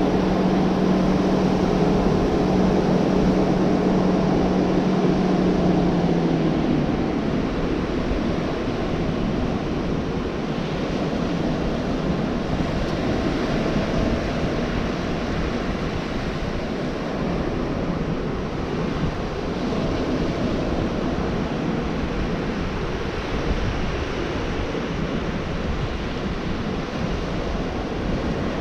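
Gulf surf washing steadily onto the beach, with wind on the microphone. A steady pitched engine hum runs through the first six seconds or so and then stops.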